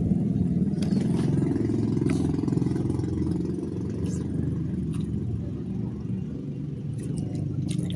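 An engine running steadily, easing off a little partway through, with a few faint clicks over it.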